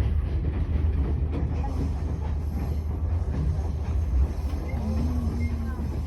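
Passenger train running along the track: a steady low rumble of the moving carriage.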